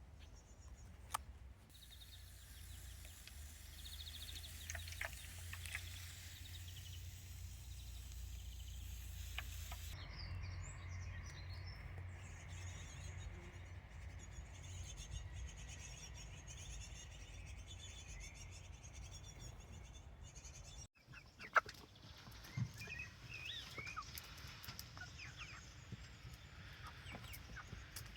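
Faint outdoor garden ambience: a low steady rumble of wind or background noise, with short bird calls and chickens clucking now and then. The rumble breaks off suddenly about two-thirds of the way through, and a few chirps and clucks follow.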